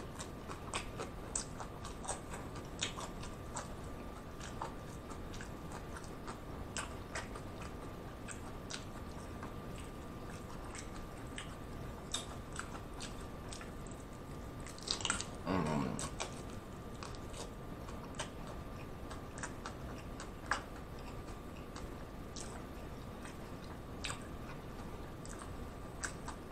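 Close-up eating of crunchy hard-shell beef tacos: bites and chewing with scattered sharp crunches of the fried shell, over a faint steady high hum. A louder burst with a falling pitch comes about halfway through.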